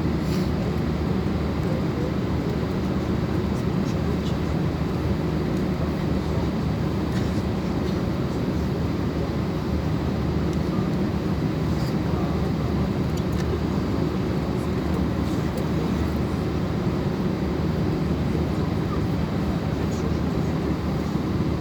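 Steady cabin drone of an Airbus A320 airliner, engine hum and airflow rush with a constant low hum and no change in level.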